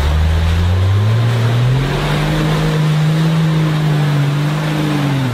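Engine of a lifted Toyota Land Cruiser off-roader on oversized tyres, working under load through mud. Its pitch climbs over the first two seconds or so, holds steady, then falls away right at the end, over a steady rushing noise.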